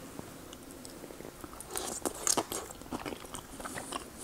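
Close-miked chewing of soft potato gnocchi: irregular wet mouth clicks and smacks starting about a second and a half in.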